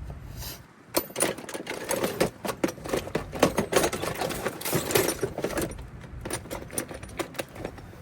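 Metal hand tools clattering and clicking in quick, irregular runs, like sockets and wrenches being rummaged through, starting about a second in and easing off near the end.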